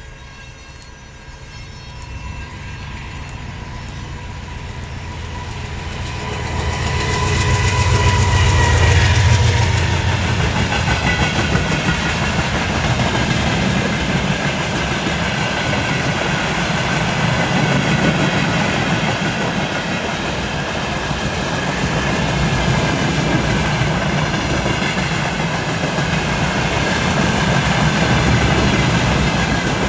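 A train approaching and running through the station. The sound builds over the first several seconds to its loudest as the front of the train passes, about eight seconds in, with tones that drop slightly in pitch. The rest of the train then keeps rolling past with a steady rumble and wheels clattering over the rail joints.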